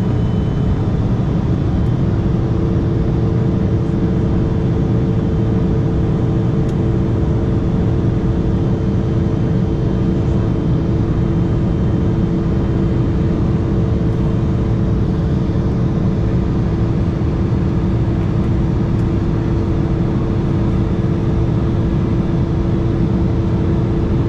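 Steady cabin noise of an Embraer E175 jet climbing out: the rush of airflow and the drone of its General Electric CF34 turbofan engines, with a steady two-note hum running under it.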